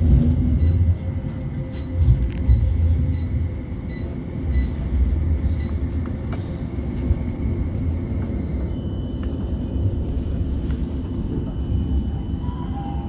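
Interior of a West Midlands Metro tram in motion: a steady low running rumble with light ticking about one and a half times a second for the first half. About two-thirds of the way through, a steady high whine comes in.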